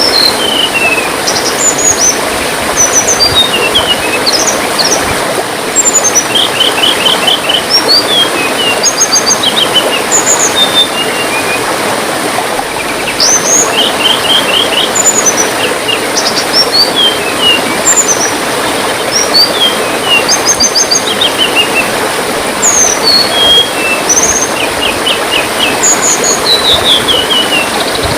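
Small songbirds, sold as tledean birds, chirping and trilling in quick, high notes over the steady rush of trickling water.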